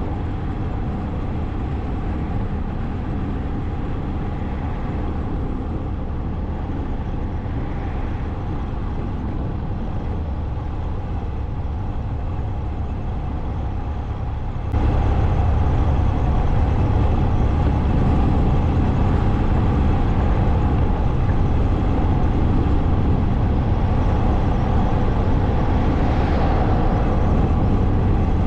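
Motorcycle engine running steadily while riding, with wind and road noise. About halfway through, the sound abruptly steps up louder and stays so.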